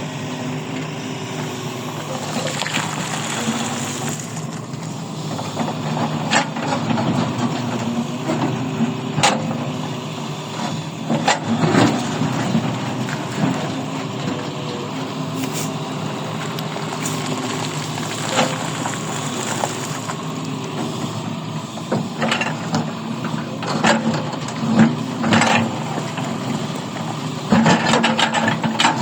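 A mining machine's engine runs steadily, with sharp knocks now and then, and the clatter grows busier near the end.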